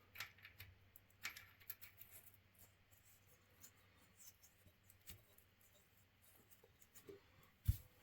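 Near silence with scattered faint clicks and light taps, and one sharper knock near the end.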